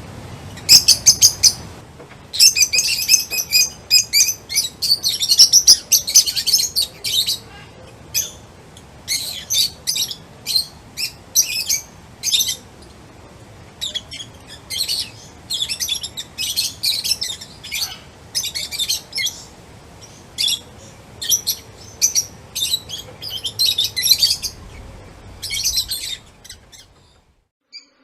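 Songbirds chirping in quick runs of short, sharp high notes with brief pauses between bursts. It stops abruptly near the end.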